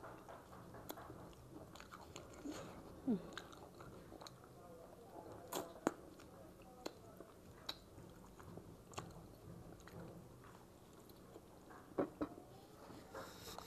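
A person chewing and biting into a piece of chicken, with scattered sharp mouth clicks and smacks between quieter chewing.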